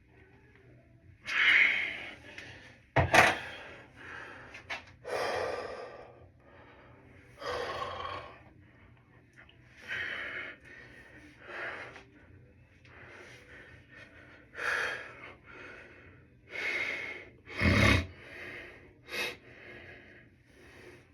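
A person breathing hard, with loud, noisy exhalations every second or two. Two sharp thumps stand out, one about three seconds in and one near the end.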